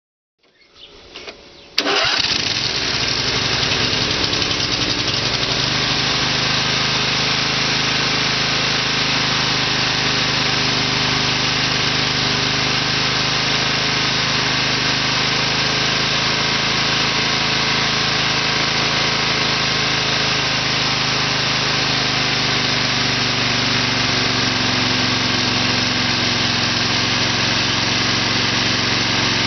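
Briggs & Stratton 20 hp air-cooled twin-cylinder engine cranking briefly, catching about two seconds in, then running steadily.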